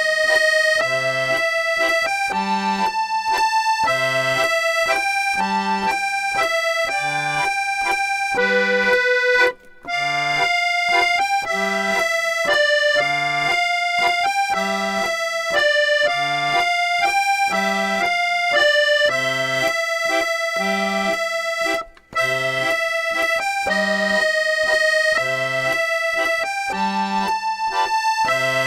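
Accordion music: a lively melody of held reedy notes over a regular alternating bass. The sound drops out briefly twice, about ten seconds in and again about twenty-two seconds in.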